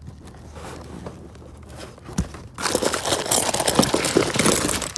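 Cardboard boxes and packaged hardware being rummaged and shifted, with faint handling noises at first, then a loud stretch of crinkling and crunching rustle starting about two and a half seconds in.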